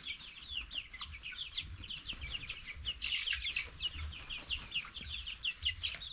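A brood of young chicks peeping continuously, many short falling cheeps overlapping at a quick, uneven rate, with soft low thumps underneath.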